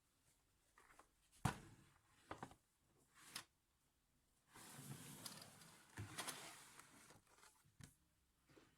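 Small objects being handled by hand: a few sharp clicks and knocks as items are set down, the loudest about a second and a half in, and a stretch of rustling through the middle.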